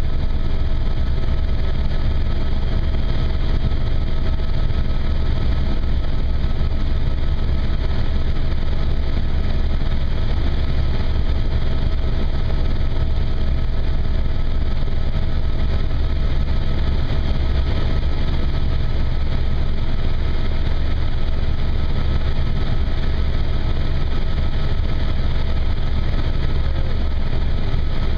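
Helicopter in flight: the steady, loud drone of its rotor and engine, heaviest in the bass, with a constant thin whine above it.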